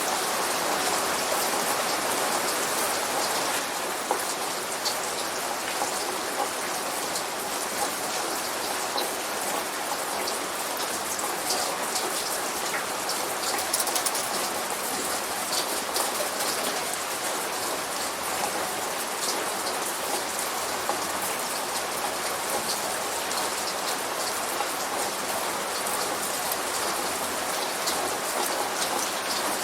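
Steady light rain falling on a surface, with a continuous hiss and scattered individual drop ticks.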